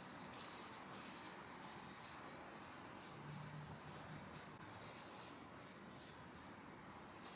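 Writing by hand: a run of quick, irregular scratchy strokes as an answer is written out.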